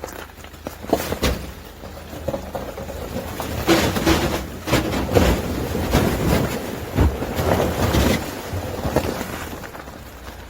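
SsangYong Rexton Sports pickup driving through a frozen mountain stream, its tyres cracking and crunching through ice and over stones in a dense run of irregular knocks, heaviest in the middle, over a steady low engine rumble.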